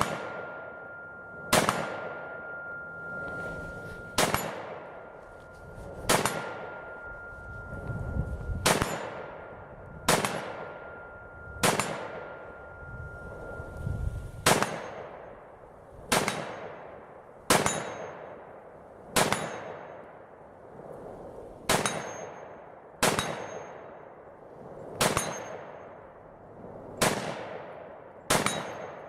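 300 AAC Blackout AR-15 short-barreled rifle firing single shots at a steady pace, about seventeen in all, roughly one every one and a half seconds. Each shot is a sharp crack with a ringing tail.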